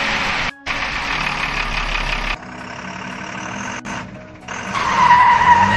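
Truck engine sound effect, mostly idling, laid in as spliced pieces with abrupt cuts and a short drop-out about half a second in; near the end a steady high tone comes in.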